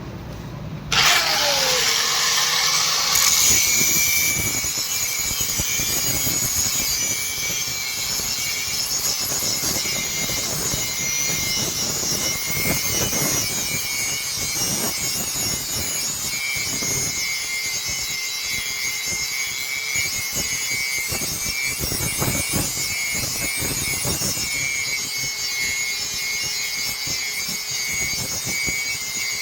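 A power tool starts about a second in and runs steadily working metal. Its pitch drops sharply just after starting, then holds level over a continuous high hiss.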